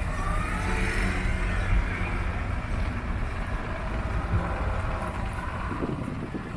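A classic vehicle's engine running as it drives slowly past: a steady low rumble, with a rising whine in the first second.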